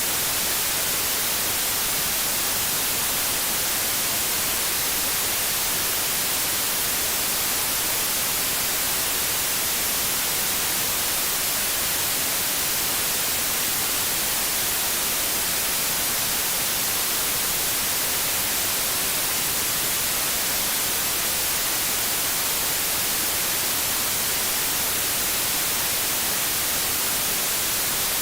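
TV static: a steady, even hiss of white noise, brightest in the treble, with no change.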